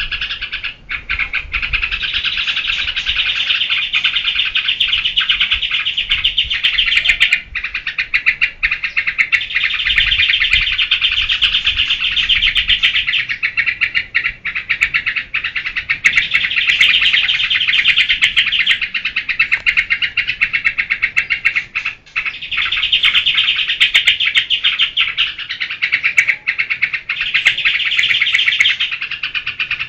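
Yellow-vented bulbul (trucukan) singing nonstop in the fast, chattering geberan style, in long runs of a few seconds each broken by short pauses.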